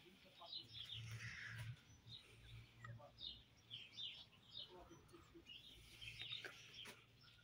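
Faint chirping and twittering of small birds, many short calls throughout, over a faint low steady hum.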